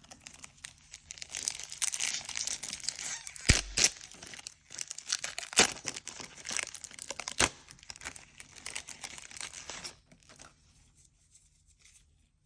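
Plastic wrapper of a 1990 Score football card pack being torn open and crinkled, with a few sharp snaps along the way; the crinkling stops about ten seconds in.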